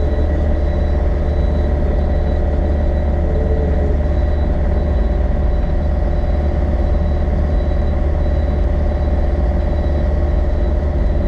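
Yanmar excavator's diesel engine running steadily under work, a constant low rumble with a faint steady whine above it, heard from inside the cab.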